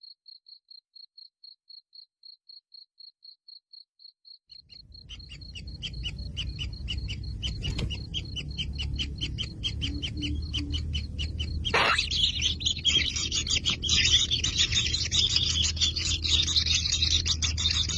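A thin, high chirp repeating about four times a second, then from about four and a half seconds in a low rumble under a rising chorus of rapid chirping calls. About twelve seconds in a sharp sound is followed by a dense, loud din of buzzy chirping, typical of kingfisher nestlings begging in the nest burrow.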